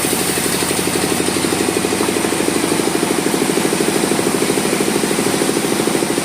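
An engine running steadily at an even idle, with a rapid regular pulse and no change in speed.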